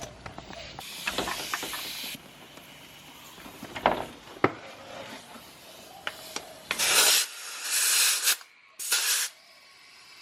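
Compressed air hissing from an air chuck as a pit bike tyre with a new inner tube is inflated, in three short bursts near the end, with a few clicks and knocks before them.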